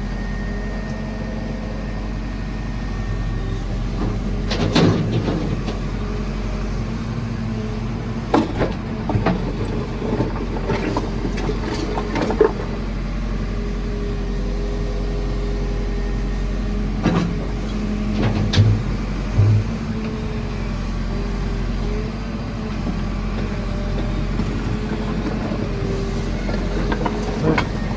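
JCB 4CX backhoe loader's diesel engine running steadily while the machine works rubble. Occasional sharp clanks and knocks of the bucket and debris are scattered through.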